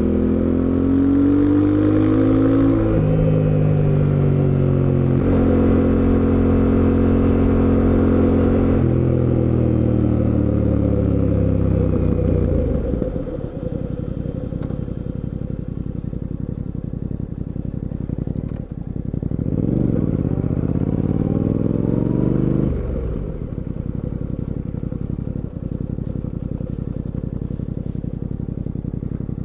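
2024 Fantic Caballero 700 Scrambler's parallel-twin engine under way. It pulls up through the gears, with pitch drops at each shift about 3 and 5 seconds in, then runs steady before winding down as the bike slows. It then runs low and quieter, with one short rise and fall in revs about two-thirds of the way through.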